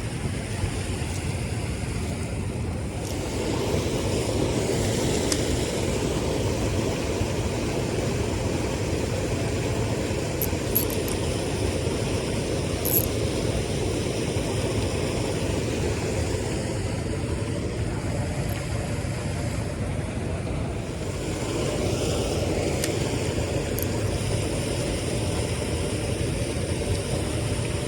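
A motor running steadily with no change in speed, mixed with wind and water noise.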